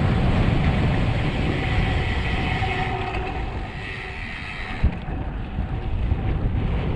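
Wind buffeting the microphone of a camera on a road bike descending at speed. A faint high whine comes and goes in the middle, and a single knock comes about five seconds in.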